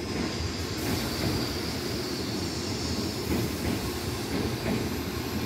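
Railway train running, a steady rumble with a faint high whine above it.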